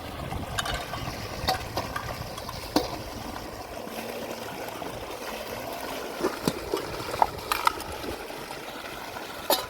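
Water trickling steadily, with scattered light knocks and splashes, several close together in the second half.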